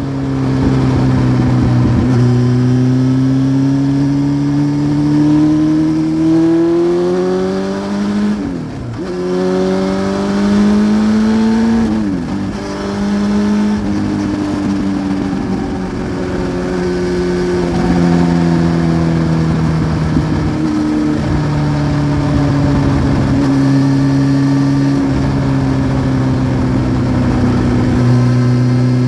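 The 893 cc inline-four of a 1993 Honda CBR900RR Fireblade, running through a Remus aftermarket exhaust while the bike is ridden. The engine note climbs slowly, twice dips sharply in pitch and recovers, then holds a fairly steady cruising pitch with small rises and falls.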